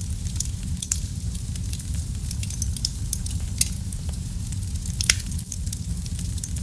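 Wood fire burning in a fireplace: a steady low rumble of flames with frequent sharp crackles and pops, a few louder pops standing out.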